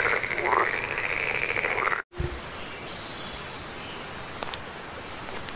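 A tree frog calling with a rapid, rattling croak that cuts off suddenly about two seconds in. A steady rush of shallow stream water follows.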